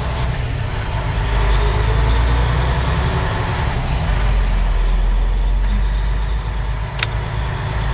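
Semi truck's diesel engine running with a steady low rumble, heard from inside the cab as it drives. A single sharp click comes about seven seconds in.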